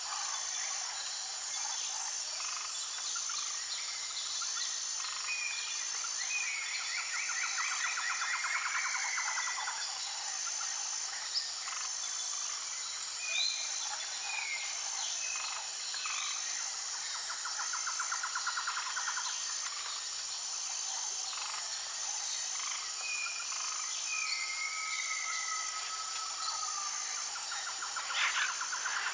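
New Guinea forest birds calling over a steady high insect drone. There are several buzzy trills, short downslurred whistles and, near the end, one long level whistle, while a high note pulses about once a second underneath.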